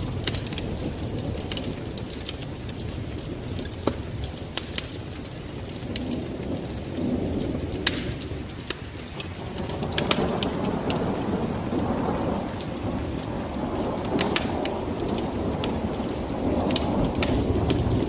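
Wood fire in a fireplace crackling with irregular sharp pops, over a low rushing rumble that swells about halfway through.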